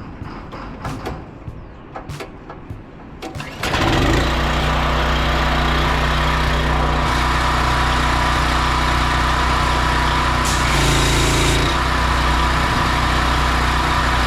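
Diesel engine of a Cat 318B excavator, coming in suddenly about four seconds in and then running steadily.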